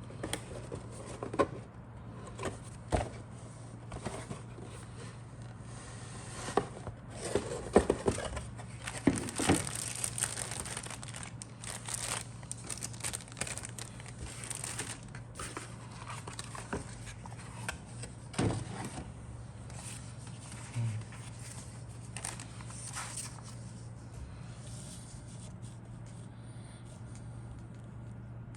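Plastic bags and kit parts being handled: irregular crinkling and rustling with scattered clicks and knocks, busiest in the first half, over a steady low hum.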